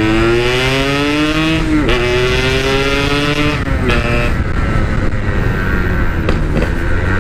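Yamaha RX-King two-stroke single-cylinder motorcycle engine accelerating hard through the gears: the pitch climbs, drops sharply at a shift about two seconds in, climbs again and drops at a second shift near the middle, then holds a steadier speed.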